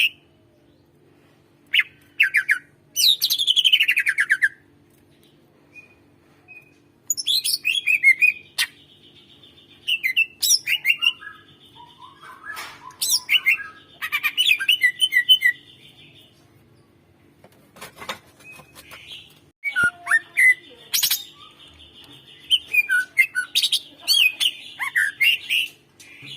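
Cucak ijo (green leafbird) singing in bursts of quick chirps, whistles and sharp descending phrases, with short pauses between bursts. A faint steady low hum runs underneath.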